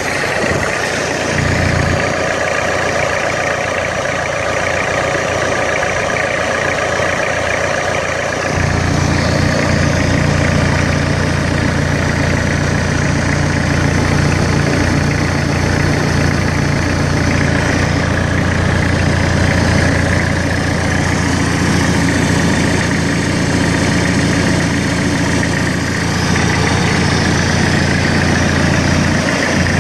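Hyundai D4BH 2.5-litre four-cylinder turbodiesel idling steadily while its oil pressure is checked. About eight seconds in the running turns fuller and deeper and stays that way.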